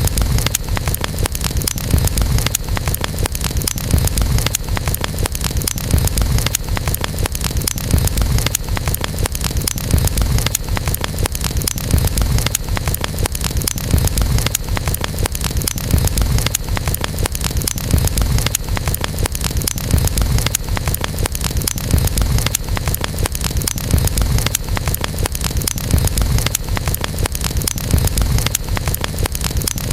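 Campfire burning: dense fine crackling and hiss over a deep rumble that swells about every two seconds.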